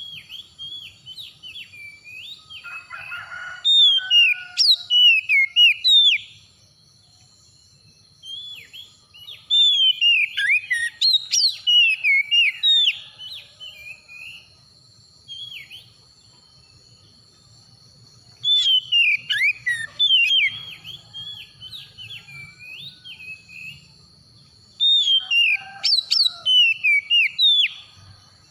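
Oriental magpie-robin singing: loud, varied whistled phrases that glide and jump in pitch. They come in bouts of a few seconds, four times, with softer phrases between, the kind of song used as a lure to bring a kept bird into song.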